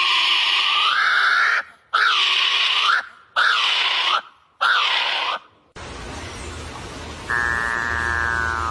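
Four loud, harsh animal calls, each about a second long with a bending pitch. After a sudden cut comes a low hum and a different, steadier pitched call.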